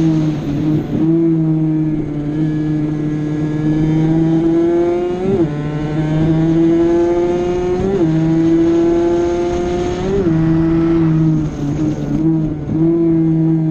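Honda NSR50's 49cc two-stroke single-cylinder engine at high revs, heard onboard during a lap. The pitch climbs steadily in each gear and breaks sharply at the gear changes about five, eight and ten seconds in, with a few uneven dips and blips in revs near the end.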